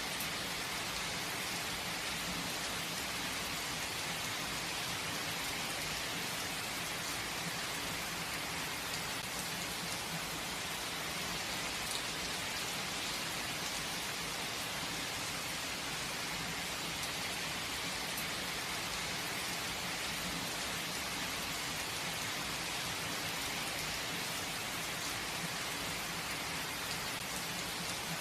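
Steady rain falling, an even hiss with a faint patter of individual drops, unchanging throughout.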